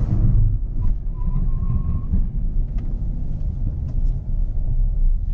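Steady low rumble of road, tyre and engine noise heard inside the cabin of a Hyundai Venue petrol while it is being driven.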